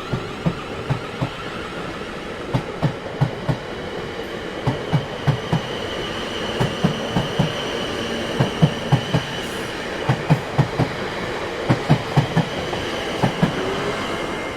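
A train running on rails, its wheels clacking over the rail joints in quick groups of two and three above a steady rumble. A faint high-pitched whine comes in through the middle.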